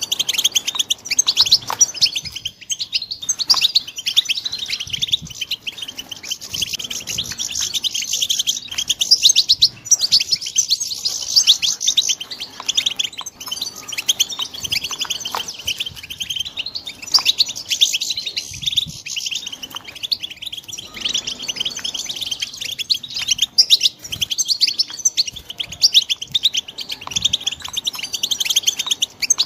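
Young European goldfinches twittering: a rapid, unbroken stream of high chirps and trills.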